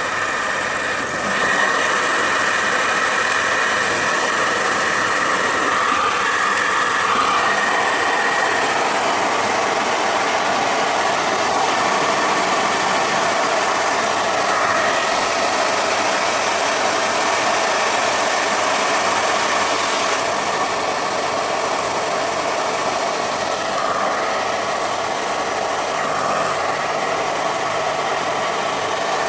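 Repaired hair dryer running steadily with its heater on: the fan motor's whine and rushing air. It gets a little louder about a second and a half in. The heating element is working again after the repair.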